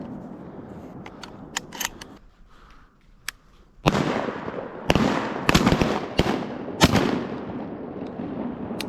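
A quick volley of shotgun shots, about five in three seconds, starting about four seconds in, each with a trailing echo: waterfowl hunters firing at ducks.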